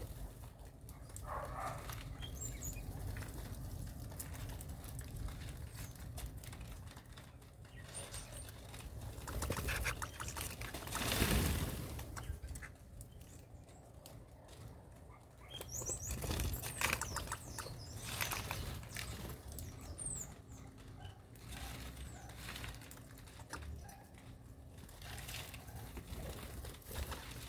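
Birds fluttering and moving about in irregular noisy bursts, with a few short high chirps.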